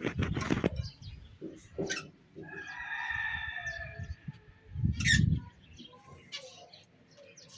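A bird's long drawn-out call lasting nearly two seconds in the middle, with low thumps near the start and again about five seconds in.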